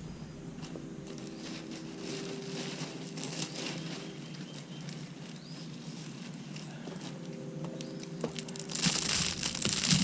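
Rustling and crinkling of mulch and plastic mulch bags being handled while a flower bed is mulched, growing much louder near the end.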